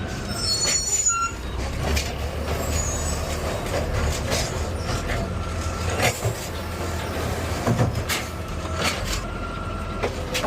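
Garbage truck engine running steadily with a low rumble, with scattered knocks and rattles and a brief high squeal about a second in.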